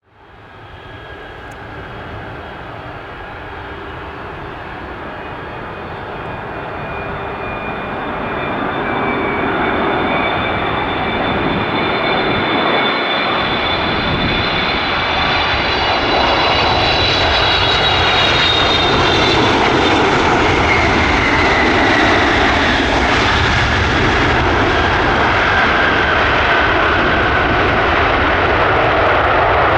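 Boeing 777 freighter's GE90 turbofans on a landing approach, growing louder over the first ten seconds and then holding a loud, steady roar. High fan whines sit on top of the roar and slowly fall in pitch as the jet passes.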